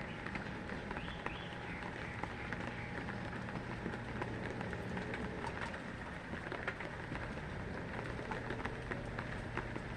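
Steady rain falling, with many separate drops ticking in quick succession over an even hiss, and a steady low hum underneath.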